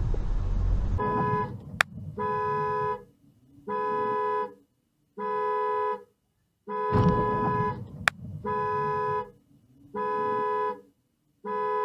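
A car horn sounds in a steady run of about eight evenly spaced blasts, each roughly a second long with a half-second gap. A low vehicle rumble comes before the first blast, and two sharp clicks fall between the blasts.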